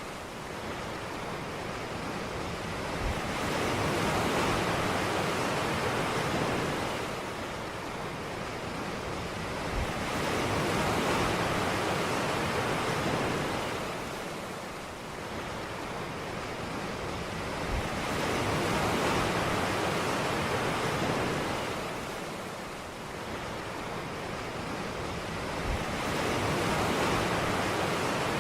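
Ocean surf: waves breaking and washing ashore in a steady rush, swelling and fading about every eight seconds, four times, each swell opening with a brief low thump as the wave breaks.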